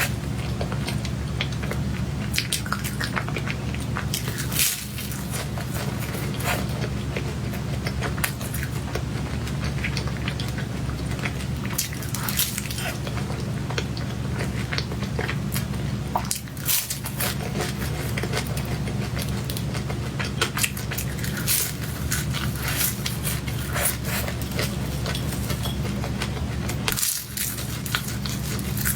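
Close-miked eating sounds of a person eating chocolate cake: chewing, mouth and lip smacks, and frequent small clicks of a fork or spoon on the plate. A steady low hum runs underneath.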